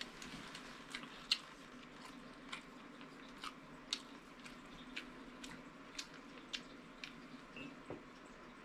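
Close-miked chewing: wet mouth clicks and smacks about every half second, the sharpest about a second in, over a low steady hum.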